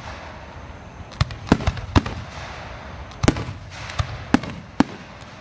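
Aerial fireworks bursting in a display: about nine sharp bangs at uneven intervals, starting about a second in and coming in loose clusters.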